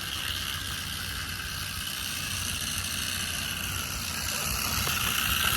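Small electric motor of a homemade PVC toy truck running steadily with a whine, growing a little louder near the end.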